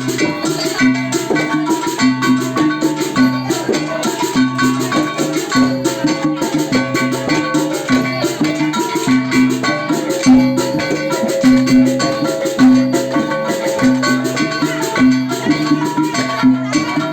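Traditional Dayak Tomun percussion music for the babukung dance: a low pitched beat about twice a second under higher, ringing pitched notes and a continuous rattling. A longer held note sounds about ten seconds in.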